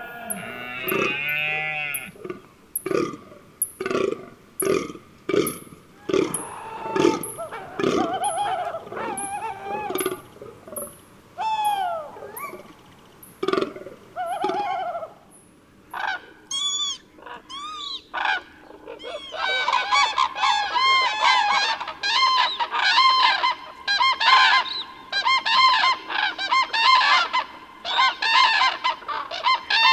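A flock of birds honking: single calls about once a second at first, then from about two-thirds through many birds calling over one another in a dense chorus. Faint high-pitched ticks sound steadily through the first half.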